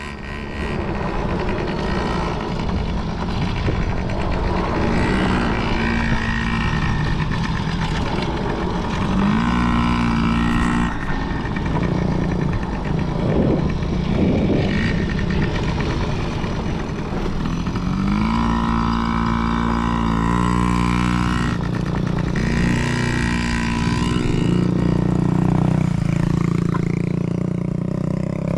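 Dirt bike engines running on a motocross track, revving up and down with the throttle, so the pitch keeps rising and falling.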